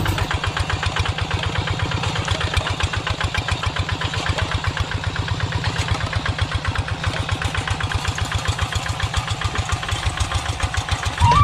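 Small engine running steadily at idle, with an even, rapid chugging beat.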